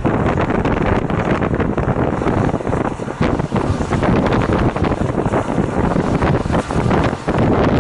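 Wind buffeting the microphone from a moving train, a steady rushing noise that gusts unevenly, with the train's running noise mixed in.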